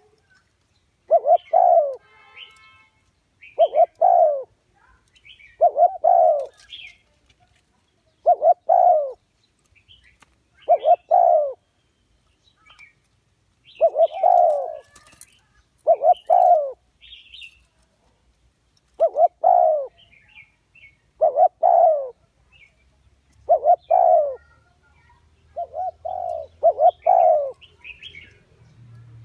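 Spotted dove cooing: short phrases of two or three low coos, repeated about every two seconds. This is the male's territorial call, used as a lure to draw wild doves into a trap. Faint higher chirps of small birds sound between the phrases.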